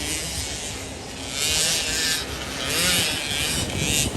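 Small motorcycle engine running, its pitch rising and falling as it revs up and down several times.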